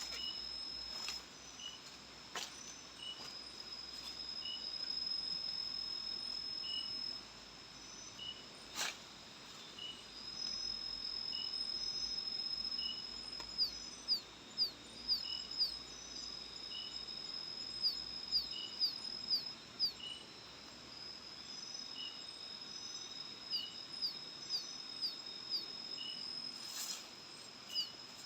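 Night insects calling in tropical forest: a high, steady cricket-like trill that breaks off and starts again, with a softer chirp repeating about once a second and runs of quick chirps in the second half. A sharp click sounds once about nine seconds in.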